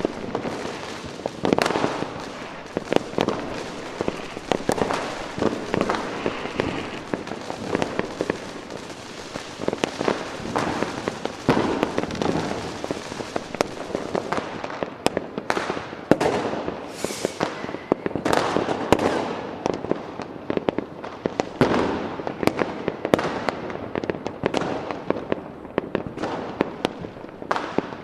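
Fireworks going off: a dense, unbroken run of overlapping bangs and crackling bursts, several a second.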